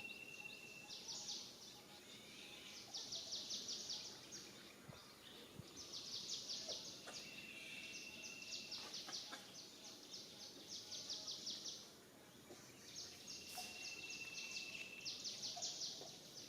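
Forest ambience: phrases of rapid, high-pitched chirping pulses, about ten a second, repeating every few seconds, with a short steady high tone about every six and a half seconds.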